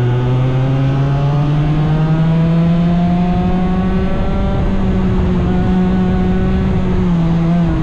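Small 100cc racing engine running hard, its pitch climbing steadily as it accelerates for several seconds, then holding and dipping slightly near the end as the throttle eases.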